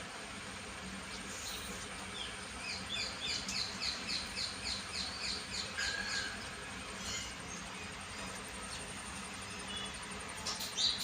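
A bird chirping in a quick series of short repeated notes, about three a second, for several seconds, over a steady faint background hiss and hum; a short sharp sound comes near the end.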